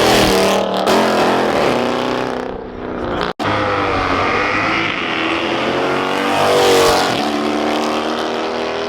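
Performance car engines revving and accelerating hard under full throttle, the pitch rising and falling as they pull away. A sudden break comes a little over three seconds in, then another engine builds to its loudest about two-thirds of the way through.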